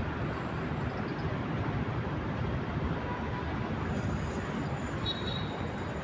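Steady urban traffic noise, a continuous low rumble with no distinct events; a short faint high tone sounds about five seconds in.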